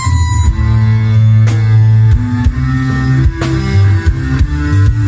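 Orkes dance band music played loud: drum kit hits over a moving bass line, with guitar and other held pitched notes.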